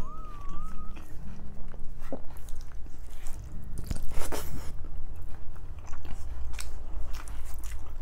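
Close-miked eating sounds of a mouthful of rice eaten by hand: wet chewing, lip smacks and small mouth clicks, with a louder mouth sound about four seconds in.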